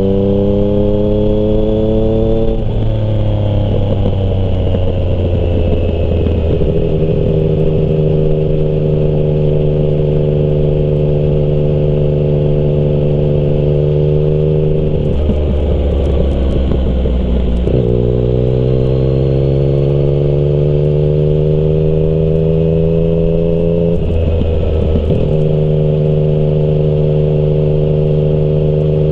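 Yamaha MT-09's inline-three engine through a Termignoni exhaust, under way. It rises in pitch, drops sharply a couple of seconds in, and holds a steady note. It falls off and climbs again about halfway through, then dips once more near the end and settles.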